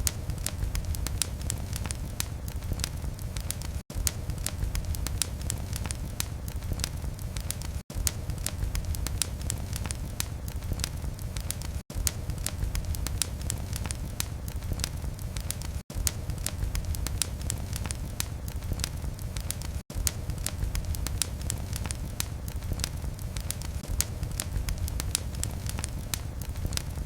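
Wood fire crackling in a fireplace: dense, irregular snaps and pops over a low, steady rumble of flames. There is a very short gap of near silence about every four seconds.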